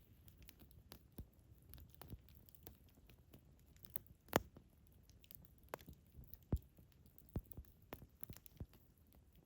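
Wood campfire crackling: irregular sharp pops and snaps, the loudest about four seconds in, over a low steady rumble of the burning fire.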